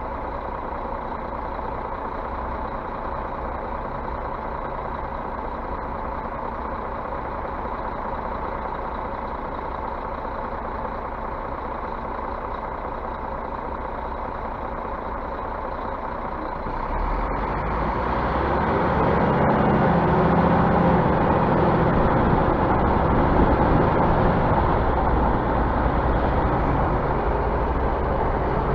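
Scania bus running with a steady engine hum that grows louder and heavier about two-thirds of the way through.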